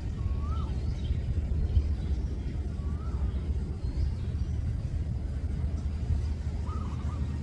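A steady low rumble, with a bird calling three times in short whistled notes that rise and fall.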